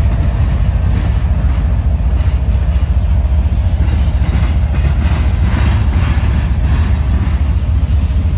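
Freight train rolling past, a loud, steady rumble with rail noise.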